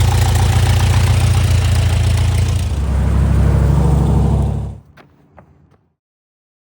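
A motor running loudly with a low, pulsing hum. It cuts off abruptly about three-quarters of the way through, and a few faint clicks follow.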